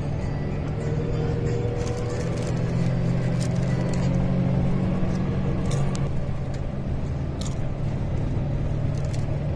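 A motor vehicle's engine running steadily, a low hum that swells a little in the middle, with a few faint ticks above it.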